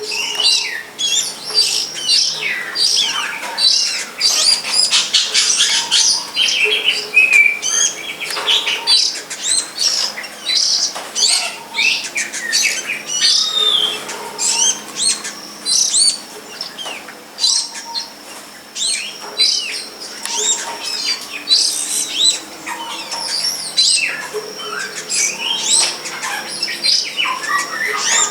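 Birdsong: a dense, continuous run of quick, varied chirps and whistled notes, with a thin steady high tone behind it.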